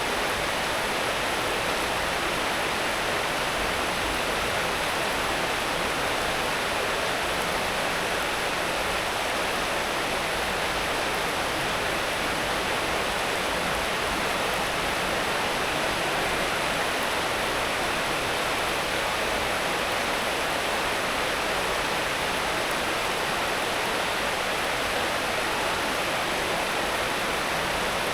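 Steady rainfall, an even unbroken hiss with no separate drops or knocks standing out.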